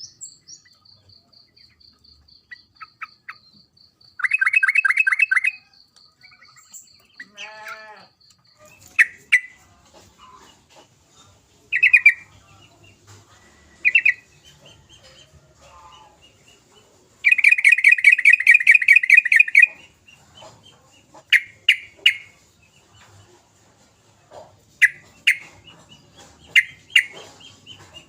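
Yellow-vented bulbul (trucukan) calling: short chirps spaced a few seconds apart, with two fast chattering trills, one about four seconds in and a longer one about seventeen seconds in.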